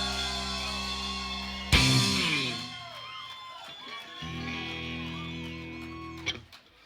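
Live rock band ending a song on electric guitar: a sustained chord, one loud final hit about two seconds in that rings down, then a held note that cuts off sharply near the end, followed by a few scattered claps.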